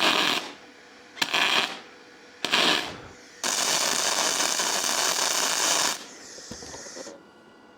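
MIG welder arc on an aluminum wheel, crackling and hissing in three short bursts of about half a second each, then one steady bead of about two and a half seconds. The arc starts and stops abruptly each time, and a fainter hiss follows the last burst.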